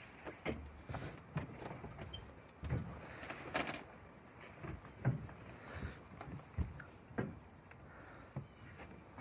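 Irregular light knocks and clicks of hand tools and metal fittings as a threaded valve assembly on a compressor air outlet is twisted round on its threads.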